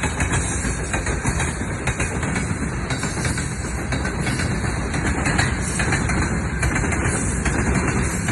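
Train hauled by a VL10U electric locomotive passing, its wheels rolling on the rails with a steady rolling noise.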